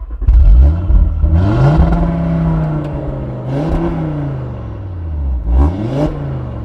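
Audi Sportback's engine and exhaust being revved: the note climbs and holds for a second or so, drops, then gets two shorter blips, the last near the end.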